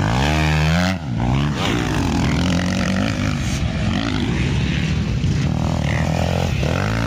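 Motocross bikes running on the track: one engine revs up hard in the first second and cuts off, then several engines overlap, and another revs up near the end.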